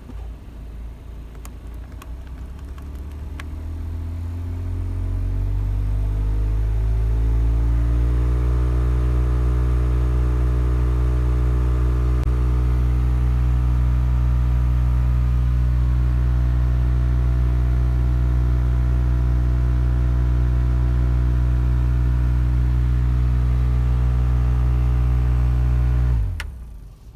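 Loud abnormal droning hum from a car's air conditioning system while it runs, the fault of noise and vibration being repaired. It rises in pitch and loudness over the first several seconds, holds steady, then cuts off suddenly near the end.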